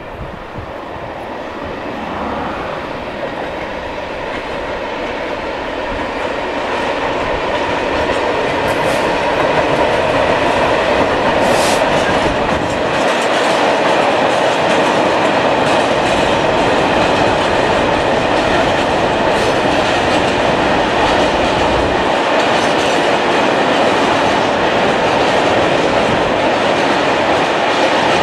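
Diesel-hauled freight train of loaded bulk tank wagons rolling past: a steady rumble of steel wheels on rail, with clattering over the rail joints. It grows louder over the first ten seconds or so as the wagons come nearer, then runs steadily.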